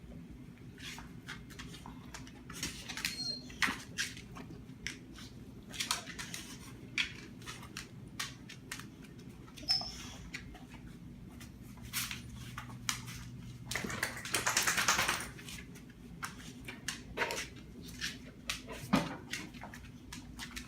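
A dog making small sounds: scattered clicks and snuffles, a longer noisy rush about fourteen seconds in, and a short, low, falling grunt near the end, over a steady low hum.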